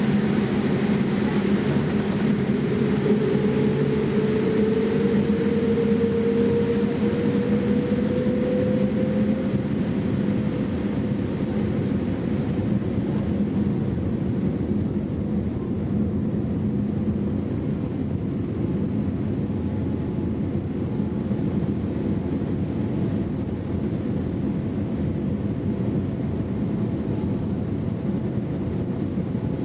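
Boeing 787-8 airliner heard inside the cabin: steady engine and airflow noise. A faint tone rises slightly over the first ten seconds and then fades.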